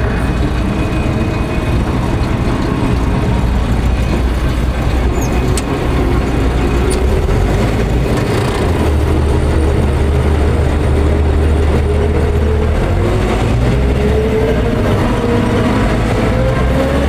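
Tractor diesel engine running steadily, its pitch climbing slowly in the last few seconds as it speeds up.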